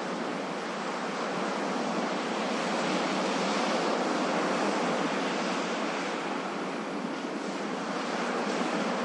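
Ocean waves washing continuously, a steady surf noise that swells gently and eases off with no single wave break standing out.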